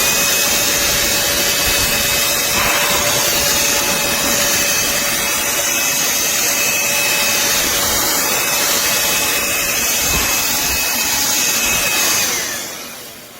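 Black+Decker Dustbuster cordless handheld vacuum running at full power, a loud steady rush of air with a high motor whine. About twelve seconds in it is switched off and winds down.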